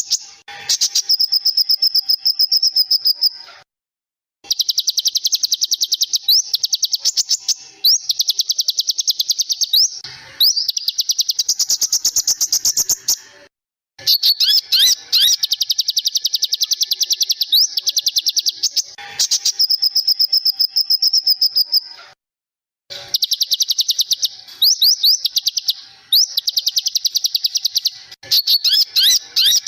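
Small songbirds singing fast trills of rapidly repeated high notes, mixed with quick upward-sweeping whistles. They come in passages a few seconds long that stop abruptly into short silences, as in a looped masteran tutor recording made for cage birds to copy.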